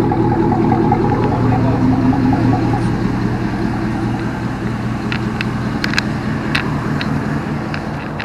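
A motor vehicle's engine running with a steady low hum that swells slightly in pitch and then eases off after about three seconds. A few sharp clicks are heard near the end.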